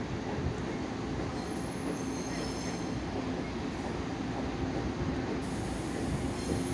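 Two-car Taiwan Railway DRC1000 diesel multiple unit pulling into a station, with a steady rumble and hum and thin high wheel squeals coming and going.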